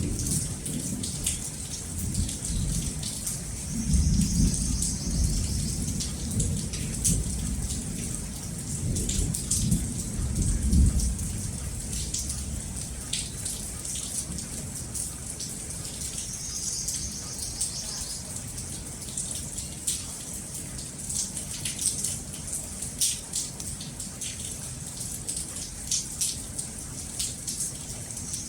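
Steady rain with close drops pattering and dripping, under low rumbling thunder that swells about four seconds in and again around ten seconds.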